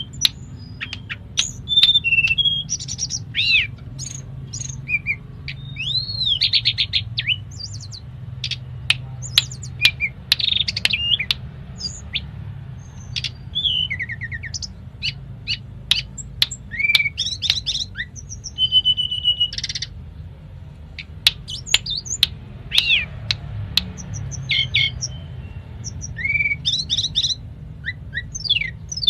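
Tledekan gunung (Sunda robin) singing a rapid, varied song of sharp clicks, chirps and whistled glides, with phrases imitated from other birds such as the canary. A steady low hum runs underneath.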